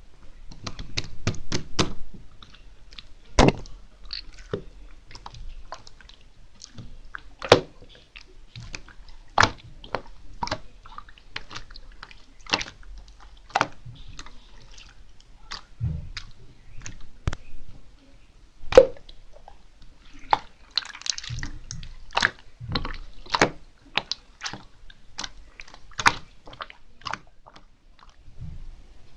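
Pink clear glitter slime being squished and worked by hand, with irregular sharp pops and clicks.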